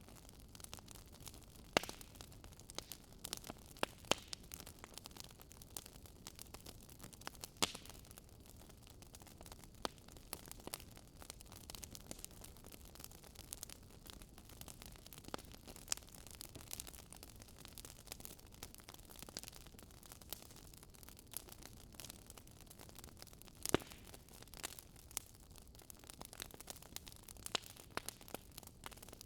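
Wood fire burning in a fireplace: soft steady hiss with irregular crackles and pops from the burning logs, a few sharper pops standing out.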